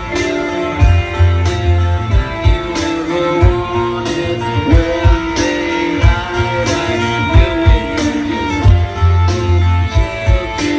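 Rock band playing live: guitars and bass over a steady drum beat, an instrumental stretch with no singing heard.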